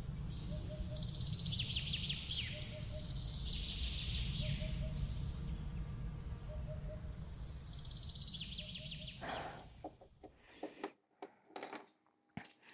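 Birds singing repeated trilling phrases over a steady low rumble, with a faint short note recurring about once a second. About nine seconds in the rumble stops abruptly and a few sharp clicks and rustles follow.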